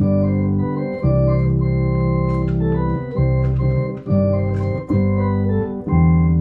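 Yamaha electronic organ playing held chords over deep bass notes, the chord changing about once a second, with light percussive ticks from its rhythm accompaniment.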